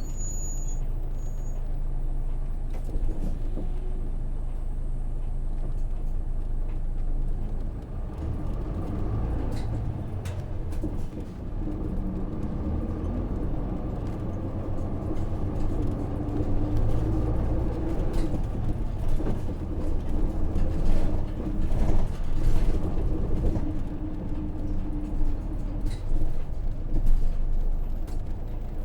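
Inside a Hino PJ-KV234L1 city bus: its Isuzu 6HK1 straight-six diesel runs with a steady low drone that grows busier and louder from about eight seconds in. Short clicks and air-system hisses are heard over it.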